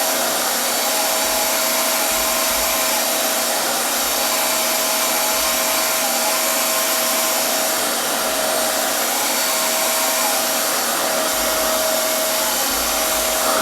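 RevAir reverse-air blow dryer running steadily: a constant rush of air from its suction wand, with a steady tone in the middle of the range.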